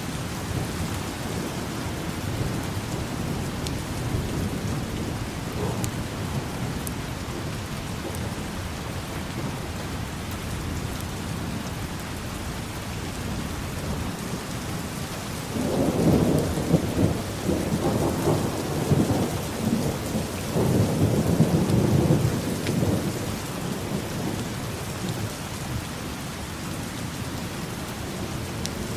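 Steady rain falling on city surfaces, with a roll of thunder rumbling up about halfway through and fading after several seconds.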